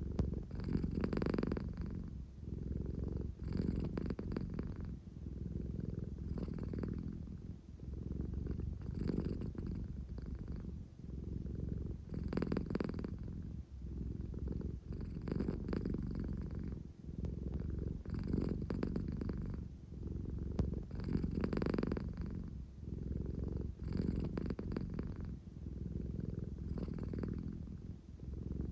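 American Shorthair cat purring close up, a low rumbling purr that swells and eases about every three seconds with each breath.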